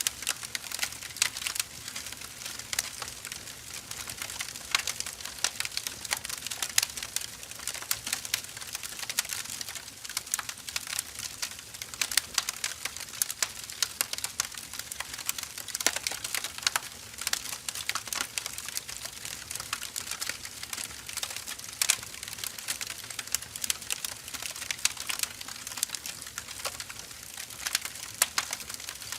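Wood fire burning with a steady hiss and dense, irregular crackles and small pops of the burning firewood.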